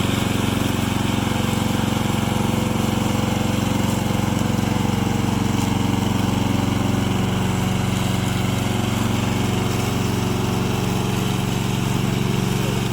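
Remote-controlled lawn mower's engine running steadily at an even speed.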